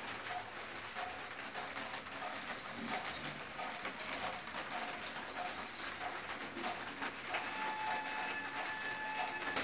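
Fancy pigeons cooing, with many short repeated notes, and a high short chirp twice. A faint steady whine comes in about three quarters of the way through.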